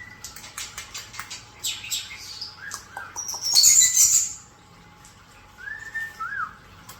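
Pet European starlings and a cockatiel calling: quick clicks, rattling chatter and short chirps, broken by a loud harsh burst a little past the middle, then two short whistles near the end, one held and one rising and falling.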